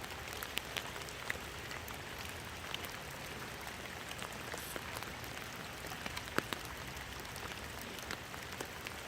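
Rain falling: a steady hiss with scattered individual drops ticking on surfaces.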